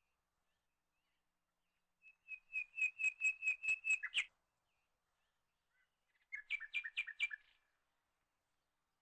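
Songbird chirping from a sound-effect track: a fast run of about ten repeated chirps starting about two seconds in, then a shorter run of about six chirps a little past the six-second mark, with silence between.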